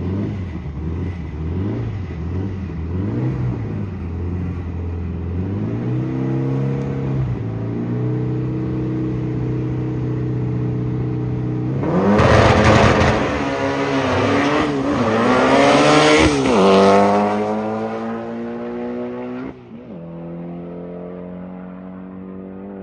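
A car engine revs in short wavering blips, then holds a steady note. About twelve seconds in it accelerates hard, its pitch climbing in steps as it shifts up through gears, then it drops back to a lower, quieter steady run.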